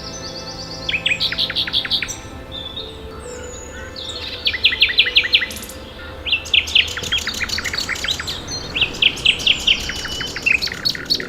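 Common nightingale singing: phrases of loud, rapidly repeated notes, each run lasting about a second, coming again and again with short pauses between.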